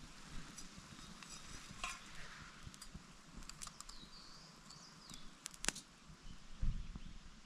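Small pine-cone and pine-needle fire in a Solo Stove Lite wood stove crackling, with scattered sharp pops, the loudest a little past halfway. A brief high chirp sounds about four seconds in.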